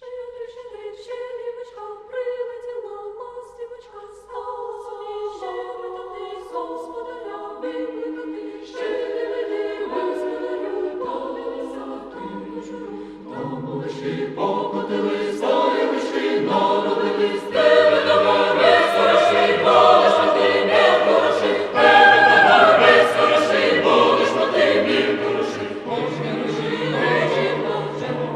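A choir singing a festive song in harmony, starting abruptly and building steadily fuller and louder, with lower parts joining about halfway through.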